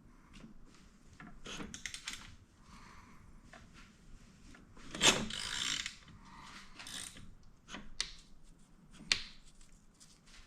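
Hand tools on an Aprilia Tuono V4 engine: a ratchet wrench clicking in short runs, with metal knocks and a louder scrape about five seconds in. The cam gear bolt is being snugged and the engine turned over by hand to check the cam timing.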